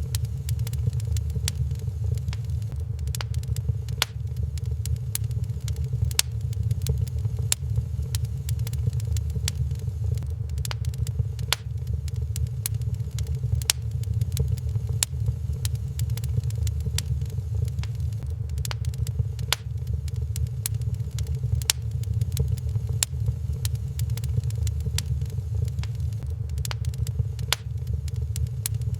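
Wood fire crackling in a fireplace, many irregular sharp pops and snaps over a steady low rumble.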